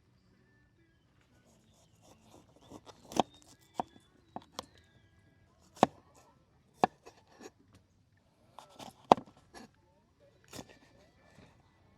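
Irregular sharp knocks, about ten of them, the loudest about three seconds and nine seconds in.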